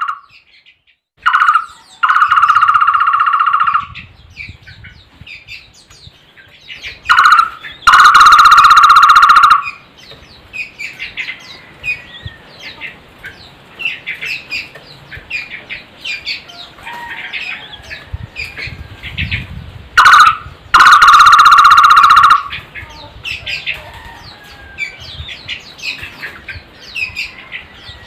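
A barbet (takur) calling loudly, three times: each time a short note, then a longer steady call lasting a second and a half to two seconds. Faint chirps of other small birds run beneath.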